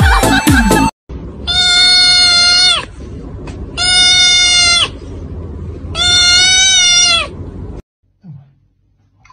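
A tabby kitten meowing three times, long, high calls of about a second each, spaced about two seconds apart, each dropping slightly in pitch at its end.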